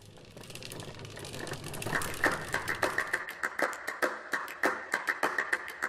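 Rapid, irregular clicking over a steady high tone, fading in and growing louder.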